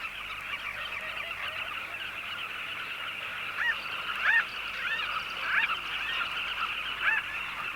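A flock of southern carmine bee-eaters calling at a nesting colony: a dense, continuous chatter of many birds at once, with single clearer call notes standing out from about three and a half seconds in.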